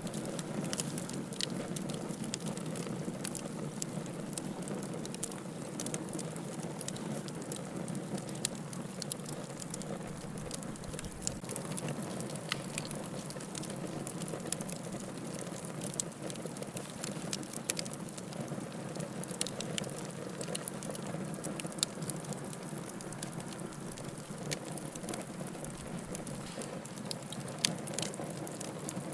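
Wood fire burning in a fireplace, crackling with frequent small irregular pops and snaps over a steady soft rush of flame.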